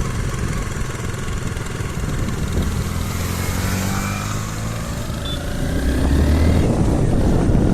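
Motorcycle engine running under a steady rushing noise. It gets louder about six seconds in.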